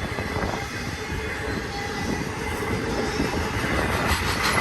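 Freight cars of an intermodal train rolling past, a steady rumble of steel wheels on rail with a thin, steady high wheel squeal, growing a little louder near the end.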